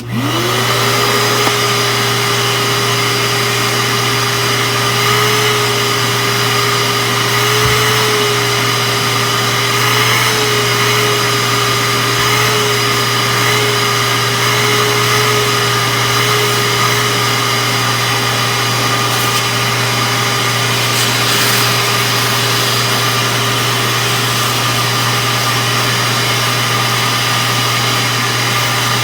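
Shop-Vac HangUp Mini wet/dry vacuum switching on: its motor whine rises quickly to speed within the first second, then runs steadily with a loud rush of air.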